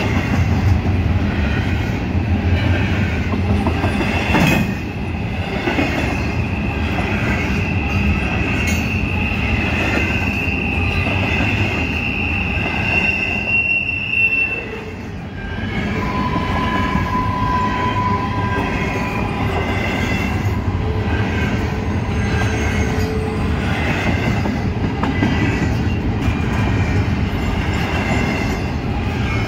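Intermodal freight cars rolling past at speed: a steady wheel-on-rail rumble with scattered clicks of wheels over the rail. A long, high wheel squeal runs from about four to fourteen seconds in, and a lower squeal follows briefly at about sixteen seconds.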